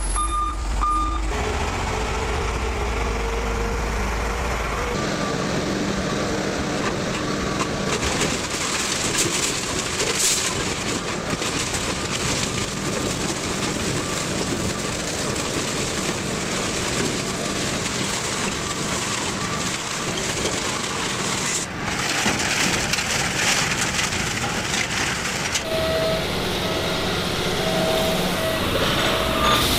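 Heavy machinery running and grinding through a series of separate clips, each cutting abruptly into the next. A steady low hum sits under the first few seconds, and an intermittent beeping comes near the end.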